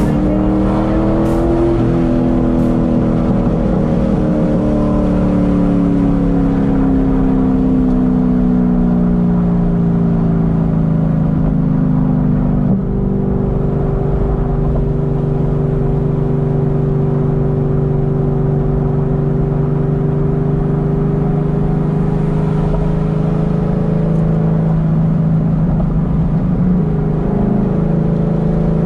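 Modified 2006 Corvette Z06's 7.0-litre V8 running under way, heard from inside the cabin. The engine note rises briefly, then sinks slowly as the car eases off, dips for a moment about 13 seconds in, holds a steady lower drone, and climbs again near the end.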